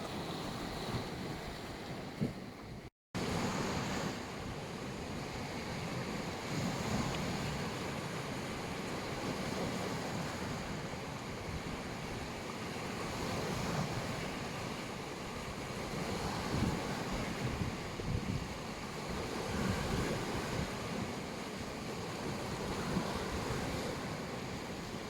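Black Sea surf washing onto a beach, a steady rush with swells every few seconds. The sound cuts out briefly about three seconds in.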